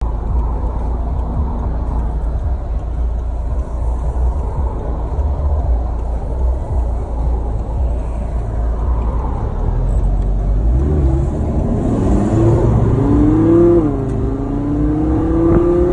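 Audi R8's V10 engine and road noise while driving: a steady low rumble at first, then from about ten seconds in the engine note climbs in pitch as the car accelerates, rising and falling with the throttle.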